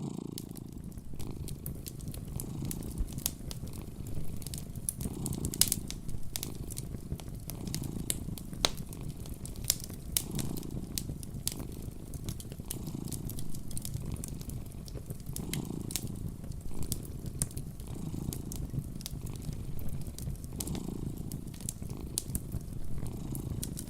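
A cat purring close up, the purr swelling and easing with each breath about every two and a half seconds, over the crackle and sharp pops of a fireplace fire.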